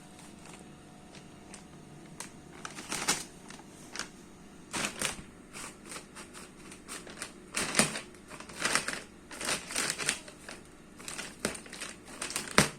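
Irregular crinkling and crunching, short sharp crackles in uneven clusters, sparse at first and busier from about three seconds in.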